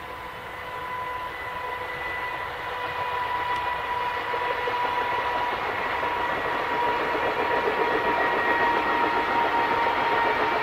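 JR Freight EF210 electric locomotive hauling a container freight train, approaching: a steady whine from its traction motors over the rumble of wheels on rail, growing steadily louder as it nears.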